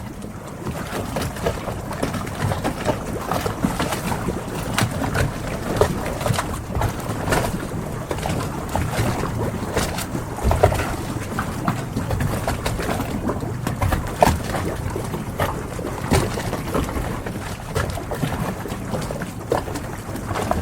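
Harbour ambience: a steady wash of water with many short knocks and clicks scattered through it, and birds calling.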